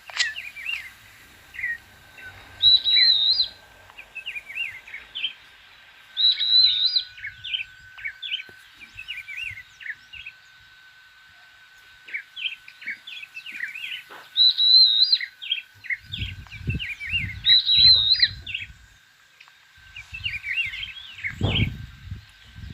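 Birds chirping and singing: many short chirps, with a louder warbling phrase coming back every few seconds, over a faint steady high tone. Low rumbling comes in during the last seven seconds or so.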